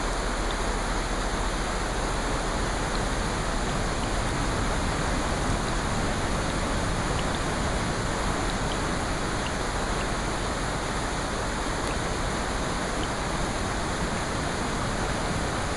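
Steady, even rushing of rain, with a few faint ticks scattered through.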